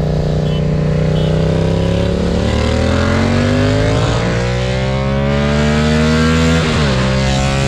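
Yamaha MT-07 parallel-twin engine accelerating hard, its pitch rising steadily and dropping at two upshifts, about four seconds in and again near the end.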